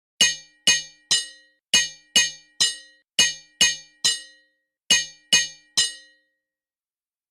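A hammer striking an anvil in quick groups of three, twelve ringing metallic clangs in all. The strikes stop about six seconds in.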